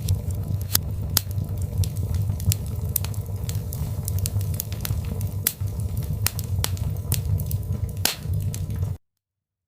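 Wood fire crackling, with irregular sharp pops and snaps over a low steady rumble. It cuts off suddenly about nine seconds in.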